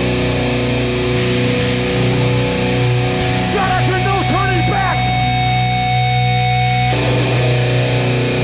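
A hardcore punk band's amplified electric guitars and bass sustaining loud ringing chords between songs, with a few brief shouts a few seconds in. A high held tone cuts off about seven seconds in.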